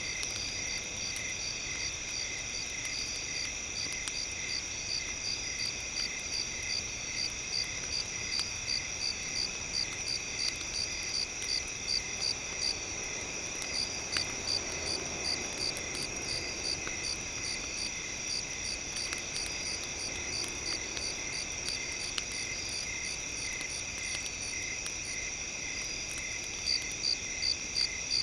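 Crickets chirping in a night ambience: several steady high-pitched trills held together, one pulsing about three or four times a second, with an occasional faint crackle.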